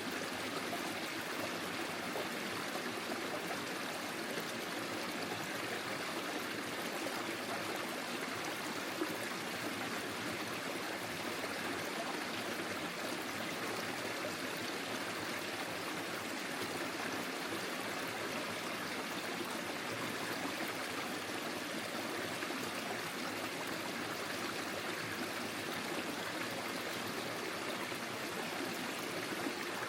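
Small forest stream flowing steadily over stones, a continuous, even rush of water with light trickling.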